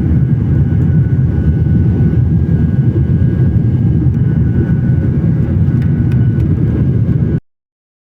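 Airliner jet engines running steadily, a dense low rumble heard from inside the passenger cabin shortly after take-off, with a faint steady whine above it. It cuts off suddenly near the end.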